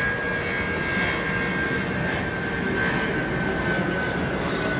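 Jet airliner's engines running as it passes, a steady noise with a high whine that slowly falls in pitch.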